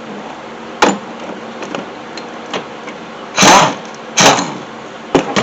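Hand tools working a mount bolt loose: a sharp metallic click about a second in, then two short, loud, harsh bursts less than a second apart, and a couple of quick clicks near the end.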